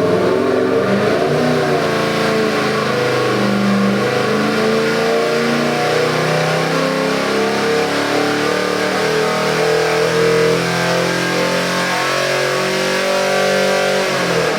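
Ford 347 stroker V8 crate engine running, its pitch rising and falling in light revs.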